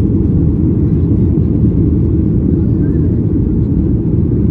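Inside the cabin of a Boeing 737-800 under way: a steady low rumble of its CFM56-7B turbofan engines and rushing air.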